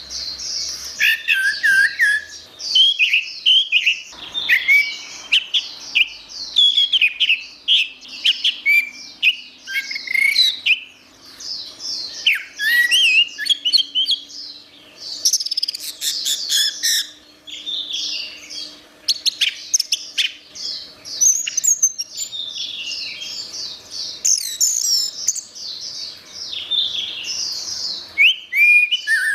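Orange-headed thrush singing a continuous, rapid, varied song of short whistled and chattering phrases, with only brief pauses.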